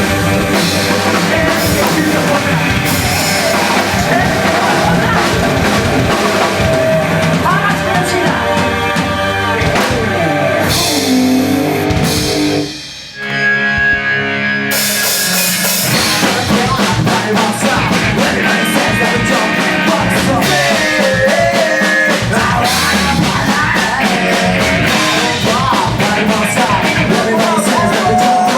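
A live hardcore band plays loud, fast rock music with drums, distorted guitars and singing. About 13 seconds in the band cuts out and a held note rings alone, then the full band crashes back in about two seconds later.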